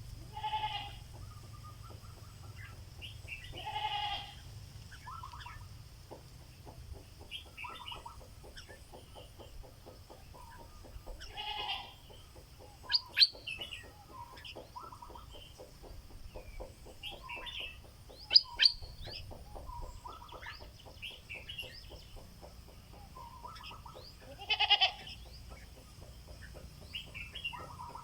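Stripe-throated bulbul, a caged decoy bird, singing short whistled phrases, with loud sharp notes about 13 and 18 seconds in. A louder, rougher call about half a second long comes four times, and fast faint ticking runs through the middle.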